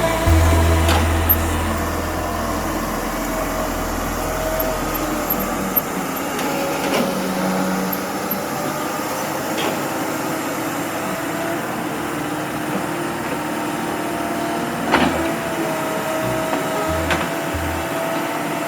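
A heavy construction machine's engine running steadily with a faint whine, with scattered clicks and knocks, the loudest about fifteen seconds in.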